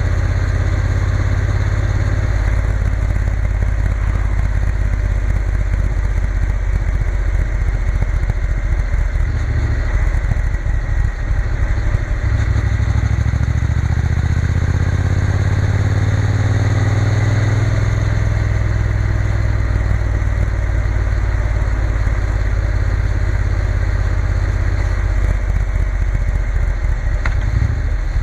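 Triumph Bonneville T120 parallel-twin engine running on the move, steady and loud, with a brief dip about a third of the way in, after which the engine note shifts.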